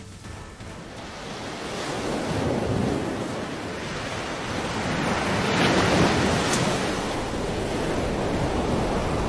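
Rushing floodwater: a steady roar of turbulent water that swells over the first couple of seconds and then holds, with wind buffeting the microphone.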